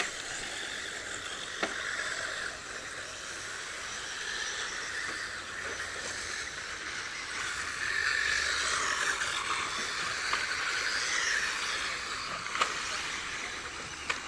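1/10-scale front-wheel-drive RC rally cars racing on dirt, their motors whining up and down in pitch as they accelerate and brake, with a few sharp clicks; louder from about halfway through.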